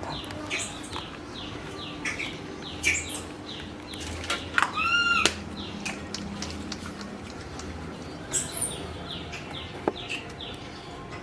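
High animal chirps: a run of short, falling chirps repeated throughout, with one longer, arching call about five seconds in.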